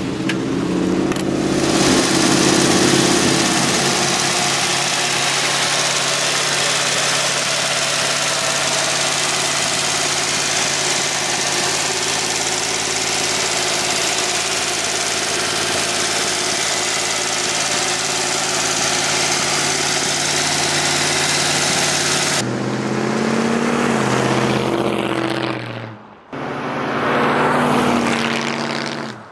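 A 302 cubic-inch V8 with dual exhaust, idling steadily for about twenty seconds. After a sudden change it revs, rising and falling in pitch, drops out briefly, then accelerates again as the car drives by.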